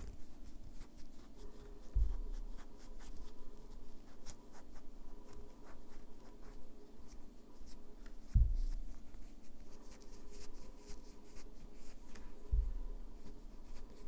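Light, irregular scratching and rubbing of manicure work on fingernails, with three dull low thumps against the work surface spread through the stretch.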